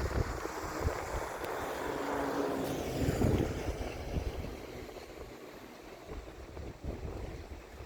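Wind buffeting the microphone in gusts, with an engine hum that swells to a peak about three seconds in and then fades away.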